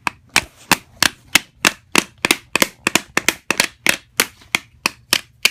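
Hammers tapping nails into a toy truck kit: a rapid, steady series of sharp strikes, about three a second, with some blows landing close together as more than one hammer works at once.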